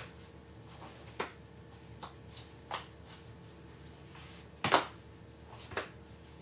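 A few scattered sharp clicks and light handling noises, the loudest about four and a half seconds in.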